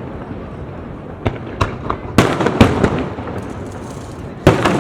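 Aerial fireworks bursting: a few small pops about a second in, then three loud bangs just past two seconds and another near the end, each with an echoing tail. Voices murmur underneath.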